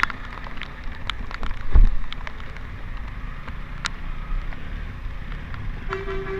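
Steady wind and road rumble of a motorcycle riding in the rain, with scattered sharp ticks like raindrops hitting the microphone and a low thump about two seconds in. A steady pitched tone, like a horn, starts near the end.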